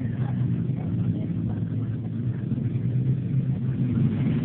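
Motocross dirt bike engines running, heard as a steady low drone.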